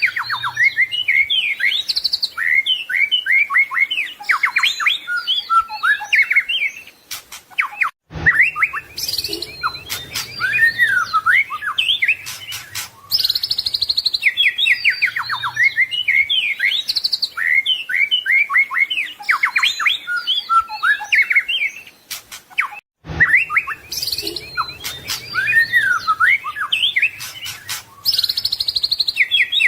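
White-rumped shama (murai batu) singing a fast, varied song of whistles, trills and mimicked phrases. The same song passage repeats about every 15 seconds, with brief gaps about 8 and 23 seconds in.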